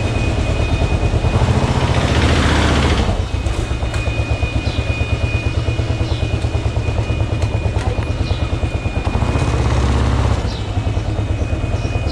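Kawasaki KLR650's single-cylinder engine running under way, a fast steady pulsing, with a brief dip in loudness about three seconds in and again near the end.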